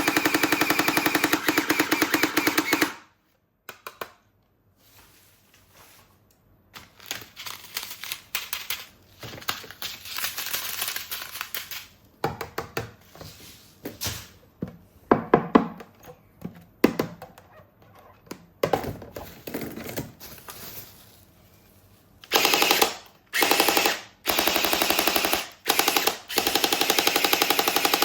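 Toy gun's electronic machine-gun sound effect firing in rapid bursts, about three seconds at the start and again in several bursts near the end. Quieter clicks and plastic handling knocks come in between.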